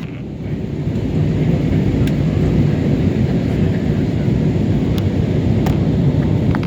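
Steady low rush of an airliner in flight, engine and airflow noise, with a few faint clicks.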